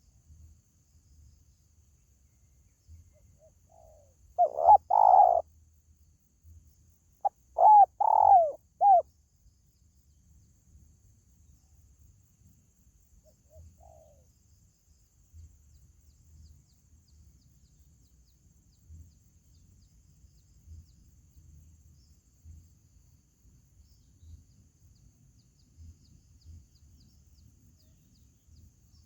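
Spotted dove cooing: one call about four seconds in, then a call of three or four notes a few seconds later, over a faint low hum.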